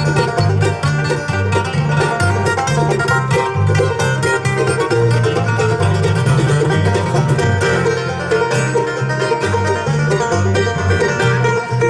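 Bluegrass band playing an instrumental break between sung verses, banjo picking to the fore over guitar and a steady low bass line.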